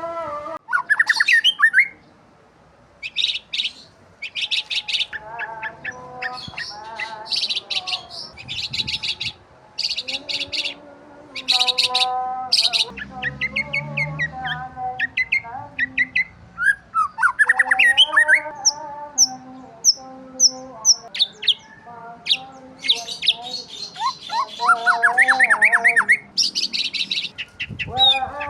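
Birds chirping and calling continuously: quick bursts of high, rapid chirps mixed with lower warbling calls that slide up and down in pitch.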